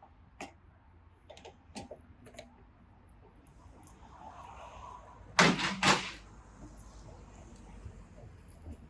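Adjustable spanner clinking against the hydraulic pipe fittings on a log splitter's valve while a pipe is undone: scattered light clicks, then two loud metal clanks close together about five and a half seconds in.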